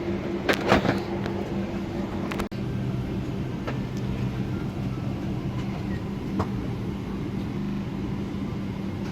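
Steady hum of a Boeing 777-300ER's cabin air system while the airliner is parked, with a couple of small knocks within the first second.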